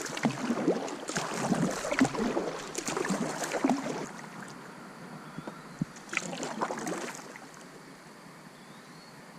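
Water splashing and sloshing around a kayak in irregular bursts for about four seconds, then fainter, with a short flurry a couple of seconds later.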